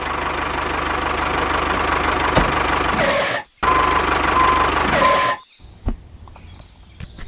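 Tractor engine running steadily with a low knocking chug. It drops out for a moment a little past three seconds in, resumes, then cuts off abruptly about five seconds in. A couple of light clicks follow.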